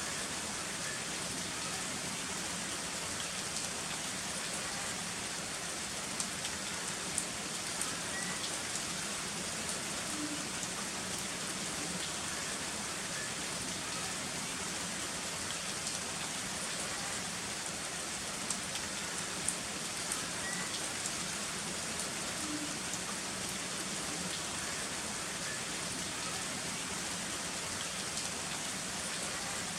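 Heavy rain falling steadily: a dense, even hiss with scattered sharper drop ticks, and no thunder.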